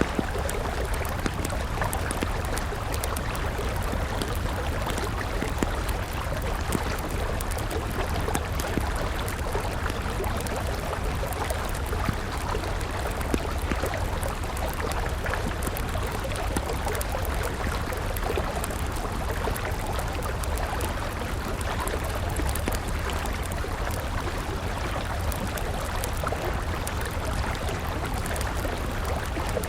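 A river flowing steadily, with a wood campfire crackling over it in frequent small snaps and pops.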